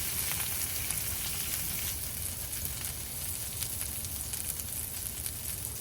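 Food sizzling and frying in a hot pan, a steady sizzle with many small crackles and spatters.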